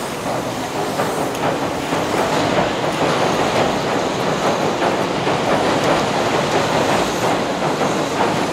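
Tobu Railway Ryomo limited express electric train rolling across a steel truss bridge: a steady clattering rumble of wheels on rails and the steel bridge. It swells a little in the first couple of seconds and then holds.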